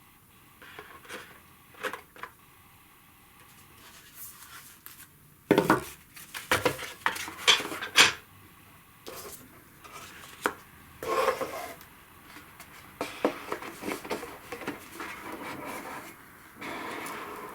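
Board game components being handled: small hard pieces clicking and clattering together, knocks on a table and cardboard rubbing and sliding, irregular throughout, with a busier run of clatter about five to eight seconds in and a steady scraping slide near the end.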